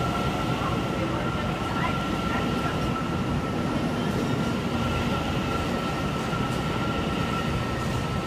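Taiwan Railways electric multiple-unit local train pulling out along an underground station platform, its cars rolling past with a steady rumble and a steady high whine.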